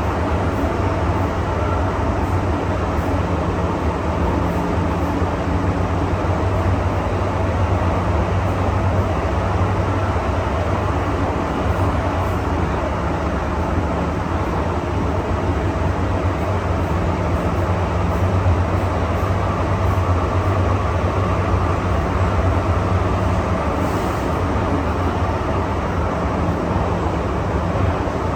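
MTR Tsuen Wan Line M-Train running steadily between stations: a continuous low rumble of wheels on rail with a faint motor hum.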